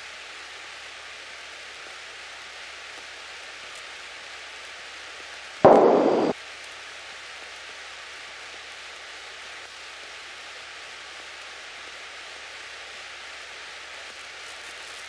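Steady hiss of Cessna 172 cabin noise, broken once, about five and a half seconds in, by a short loud burst lasting under a second.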